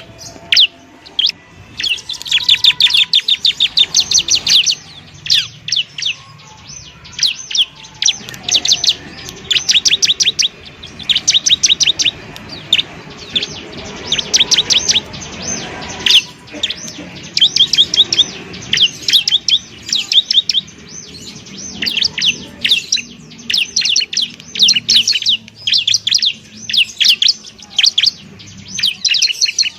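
Bar-winged prinia (ciblek) singing: fast, high, trilled phrases of about a second each, repeated again and again with short pauses between them.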